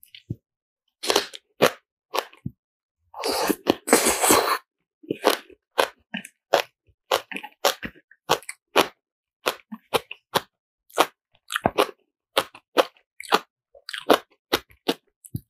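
Close-miked chewing and crunching of spicy napa cabbage kimchi and black bean instant noodles: a long run of short, crisp crunches, with a longer, louder stretch about three to four seconds in.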